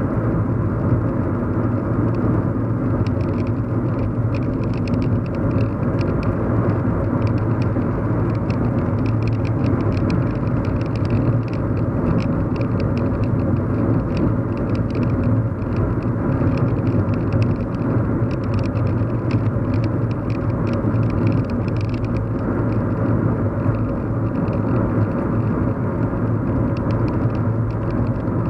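Steady low hum and road rumble of a car driving, heard from inside the cabin. A faint patter of fine high ticks runs through the middle stretch.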